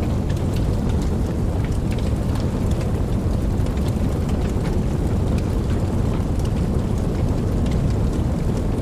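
Steady rain falling, with scattered individual drops ticking and a deep continuous rumble underneath; no single thunderclap stands out.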